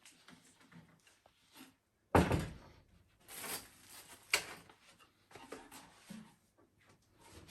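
Wooden knocks and thunks from handling the wooden feeder and boards: a heavy thud about two seconds in, then a few lighter knocks, one sharp, with short pauses between them.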